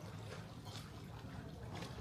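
Swimming-pool water splashing and lapping, with soft splashes about once a second over a low rumble.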